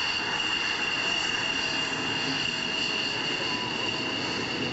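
An F-16C Fighting Falcon's Pratt & Whitney jet engine running steadily after landing: an even rushing noise with a steady high whine.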